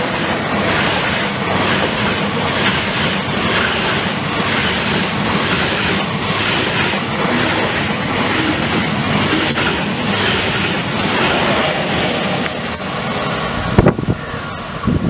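German ICE 3 high-speed train passing at speed: a loud, steady rush of air and wheel noise with a regular clatter as each bogie goes by. Near the end the rush stops and a few gusts of wind buffet the microphone.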